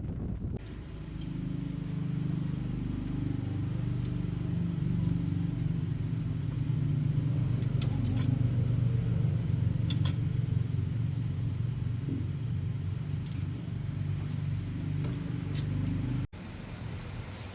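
Motor vehicle engine running steadily with a low, even hum, broken off abruptly near the end with a few faint clicks.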